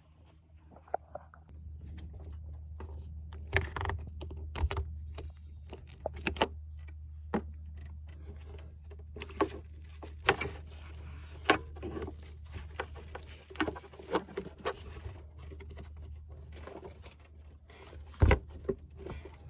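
Hand tools and engine parts clicking, clinking and knocking at irregular intervals, with one louder knock near the end. Under it runs a low steady hum that starts about a second and a half in.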